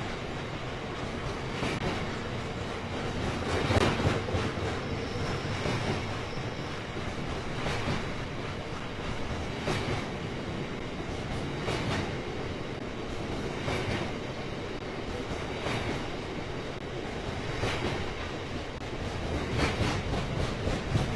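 Coal train's wagons rolling past with a steady rumble, the wheels knocking over a rail joint about every two seconds.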